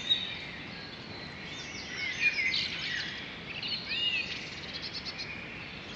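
Birds chirping and calling over a faint steady outdoor hiss, with a few short rising and falling whistled calls in the middle.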